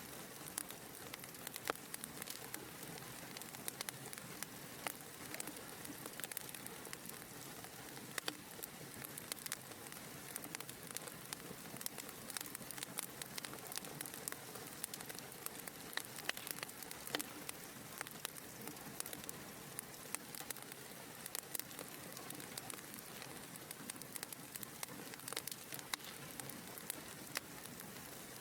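Wood fire burning in a fireplace, with a steady hiss of flames and frequent small, sharp crackles and pops scattered throughout.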